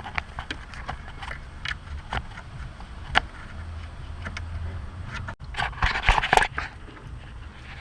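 Scattered clicks and short scrapes of brittle plastic clips and connectors on a car's wiring harness being pried and worked by hand, with a burst of louder scraping and clicking about six seconds in.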